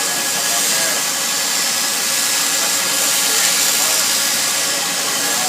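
Steady wind rush over the microphone with a motorcycle engine running underneath, as on a moving motorcycle.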